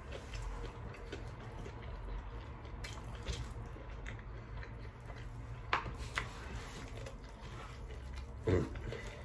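A man chewing a mouthful of a soft French toast, egg and bacon sandwich: faint wet mouth clicks and smacks over a low room hum, with a short hummed "mm" near the end.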